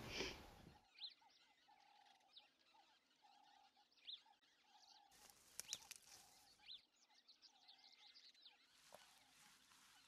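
Near silence with faint bush sounds: short bird chirps every second or two, over a soft lower note that repeats about once a second.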